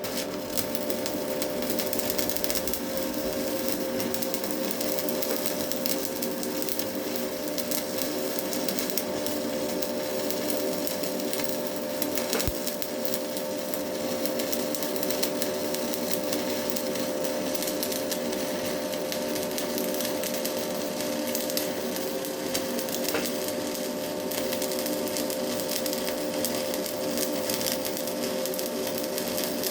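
Stick (MMA) welding with a Hilco electrode: the arc crackles and sizzles steadily, with a steady hum under it, as a bead is run along the steel with a slight weave.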